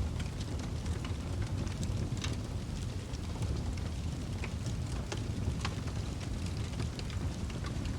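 Wood fire burning in a fireplace: a steady low rumble of flames with frequent small irregular crackles and pops from the burning logs.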